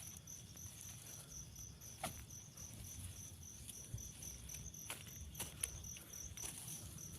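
Cricket chirping steadily at night, a high-pitched pulse repeating about four times a second, with a few faint clicks over it.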